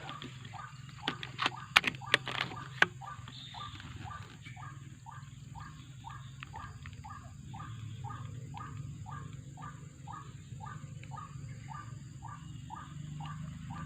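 White-breasted waterhen (kruok) calls, a short note repeated evenly about two to three times a second. A handful of loud, sharp knocks comes about one to three seconds in.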